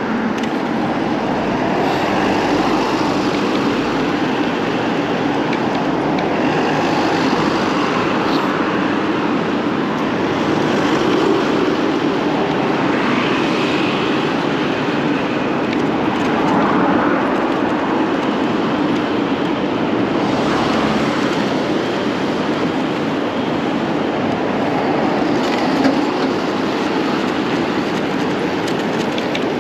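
Steady rushing of wind and road noise on the camera microphone while riding an electric rental bike along city streets, with faint traffic sounds in it.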